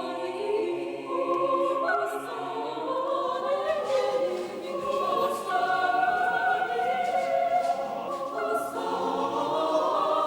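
A choir singing a slow hymn, several voices holding chords that change every second or two.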